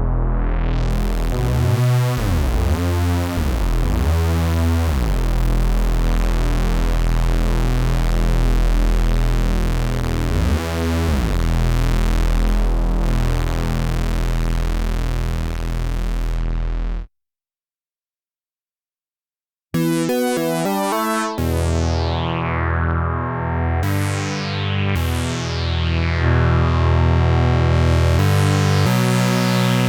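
Cherry Audio P10 software polysynth playing bass presets: a held, deep synth bass with slow filter sweeps cuts off about 17 seconds in. After a couple of seconds of silence a new bass preset plays short notes, each starting bright and quickly turning dull as its filter closes.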